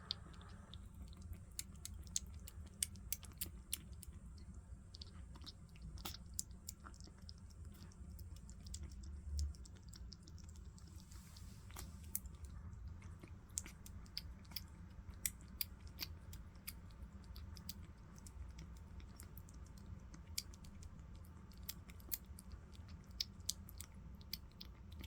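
Kitten eating soft weaning food: quick, wet smacking and lapping clicks of its tongue and mouth, coming irregularly throughout.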